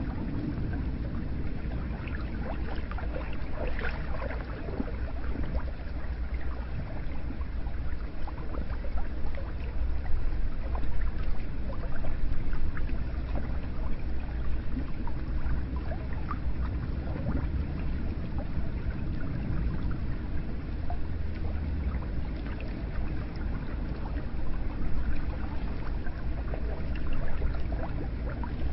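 Hot spring water running and gurgling, a steady wash with many small splashes and drips scattered through it.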